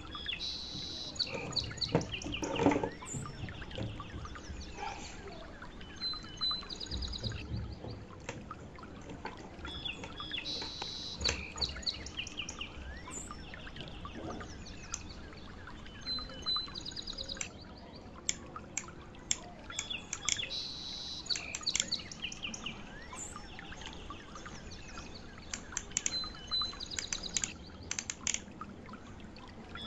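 Birds chirping and singing, the same high chirping phrases recurring about every ten seconds, with scattered sharp clicks.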